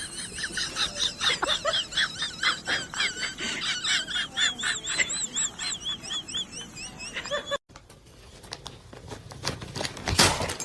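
Rapid, high-pitched chirping or squeaking calls from a small animal or bird, several a second, for about seven and a half seconds. The calls stop abruptly, giving way to a quieter stretch with a few knocks and a short louder noise near the end.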